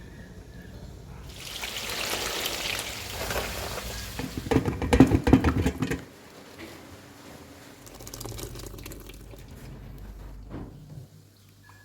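Water running or pouring for a couple of seconds, then a loud burst of clattering knocks lasting about two seconds, followed by quieter handling sounds.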